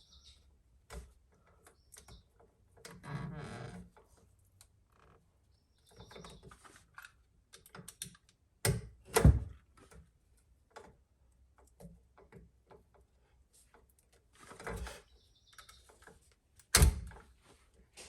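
Irregular clicks, taps and knocks of hand tools and stiff electrical wire being handled while wiring an outlet, with a short rustle about three seconds in, two sharp knocks around nine seconds in and another near the end.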